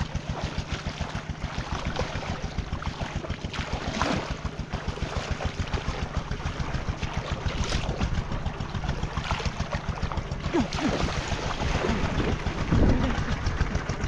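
A small engine running steadily with a fast, even pulse, with a few brief louder knocks or swishes over it.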